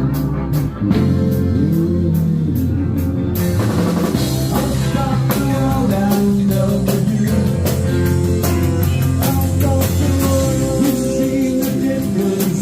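Live rock band playing, with drums keeping a steady beat under guitar and bass; the sound becomes brighter and fuller about three and a half seconds in.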